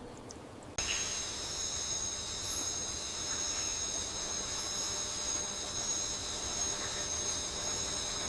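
Insect chorus of crickets or similar insects trilling, a steady high-pitched buzz on several even pitches that starts abruptly about a second in.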